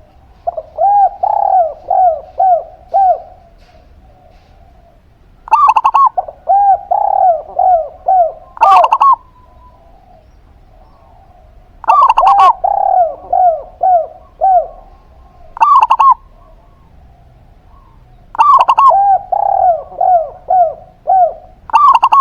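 Doves cooing in four bouts about six seconds apart. Each bout is a quick run of five to seven short hooked coo notes, with a louder, sharper note near its end.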